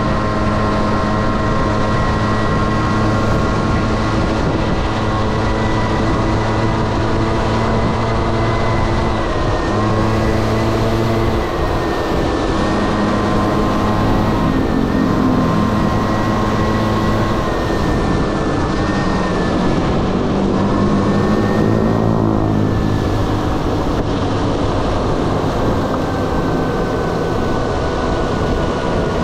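Honda Dio AF18 scooter's small single-cylinder two-stroke engine running under way with a steady buzzing note, over wind and road noise. The engine note dips and rises again about two-thirds of the way through as the throttle eases off and comes back on.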